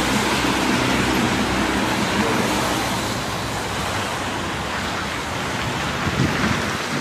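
Road traffic noise: a vehicle's engine hums steadily and fades after about two seconds, leaving a rushing haze. Near the end, wind buffets the microphone in low gusts.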